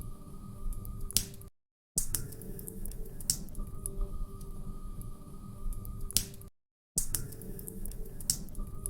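Wood fire in a fireplace crackling, with scattered sharp pops and snaps over a low rumble of burning. Twice the sound cuts out completely for about half a second and then resumes.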